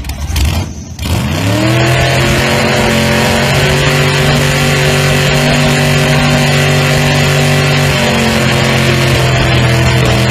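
1972 Chevy C10 pickup's LS V8 engine revving up about a second in, then held at steady high revs.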